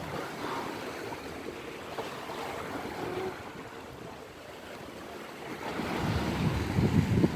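Sea waves washing in on the shore, with wind buffeting the microphone; the surf grows louder near the end.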